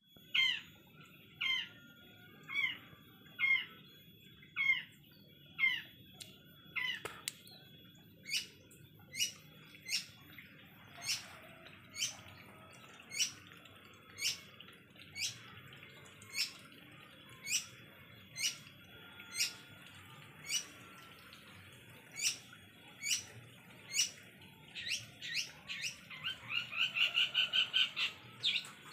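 A bird calling over and over, about once a second: short falling notes at first, then sharper chirps, with a quick run of calls near the end.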